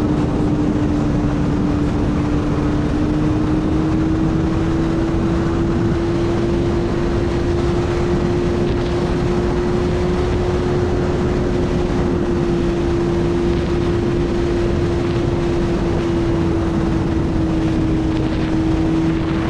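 Suzuki GSX-R1000 inline-four engine running steadily under way, its note rising slightly a few seconds in and then holding, with heavy wind rush on the microphone.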